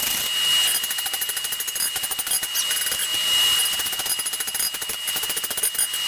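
Rapid, evenly repeated hammer blows forging hot steel, starting about a second in, over a steady high whine.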